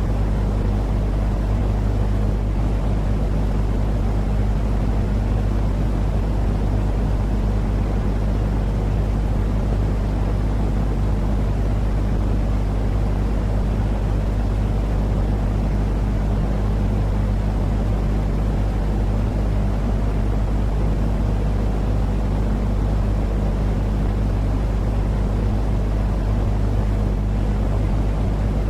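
Steady, unchanging rumbling noise of a sleep-noise track for soothing babies, heavy in the low end with a constant low hum beneath, like a vehicle drone.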